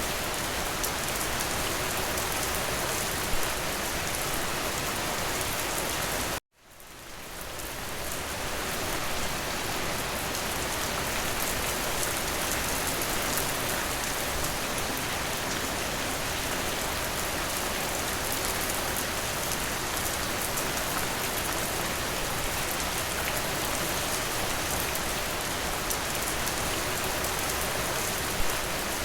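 Steady rain pattering on a window pane, with a couple of sharper single taps. About six seconds in the rain cuts out abruptly, then fades back up to full over a couple of seconds.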